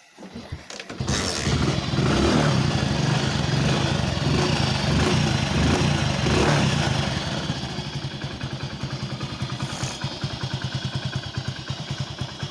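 Hero Passion Plus motorcycle's single-cylinder four-stroke engine starting about a second in, held on the throttle for several seconds, then dropping back to a steady idle with fresh engine oil in it. The idle is set low, so it only keeps running with some throttle.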